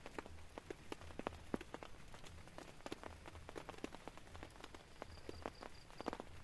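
Rain falling on a tent, with individual drops tapping irregularly and sharply over a soft steady hiss.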